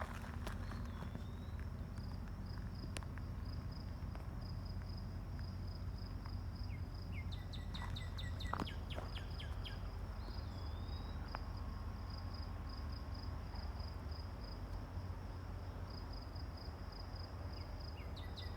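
Insects trilling in a steady, pulsing high-pitched chorus. A bird gives a few short chirps about a third of the way in, again a little past the middle, and near the end, over a constant low rumble.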